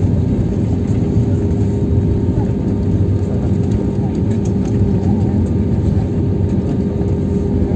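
Jet airliner cabin noise: a steady low rumble of engines and airflow with a constant hum, heard from inside the cabin as the plane lands or taxis.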